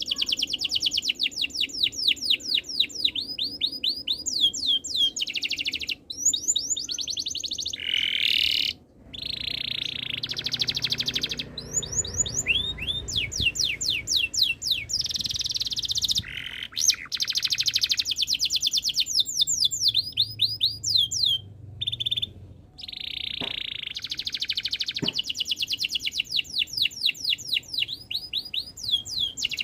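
Domestic canary singing a long rolling song: fast trills of rapidly repeated sweeping notes alternating with buzzing rolls, broken only by brief pauses.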